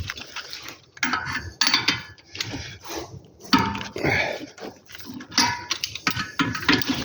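Metal hand tools clinking and clanking irregularly, a wrench and socket being handled and fitted, with a few ringing metallic knocks.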